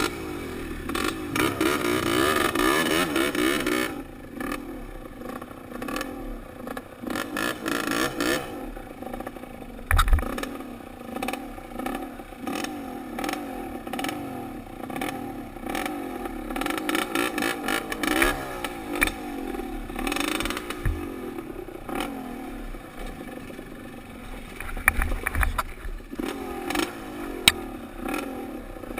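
Dirt bike engine revving up and down, its pitch rising and falling, with many sharp knocks and rattles and a loud thump about ten seconds in.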